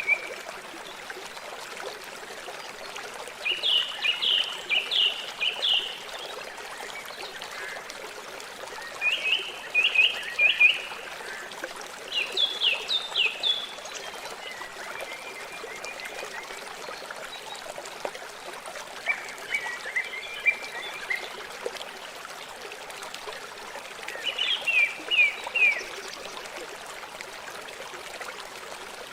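River water flowing steadily, with a songbird singing short phrases of quick, repeated falling notes every few seconds, louder than the water.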